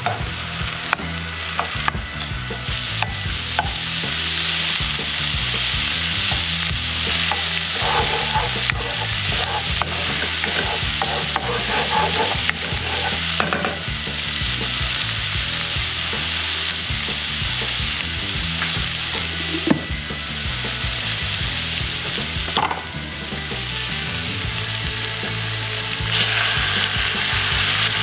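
Minced garlic and frozen chili-oil cubes sizzling in hot avocado oil in a nonstick pan, stirred now and then with a utensil. The sizzle drops suddenly about 23 seconds in and grows louder again near the end.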